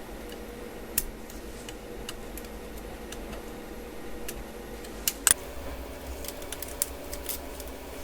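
Scattered small clicks and taps of hands and tools working on a laptop's internals, with the loudest pair just past five seconds in.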